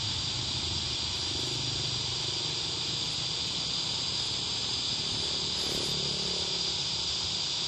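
Steady high-pitched hiss with a faint low hum beneath, unchanging and with no voice on the radio.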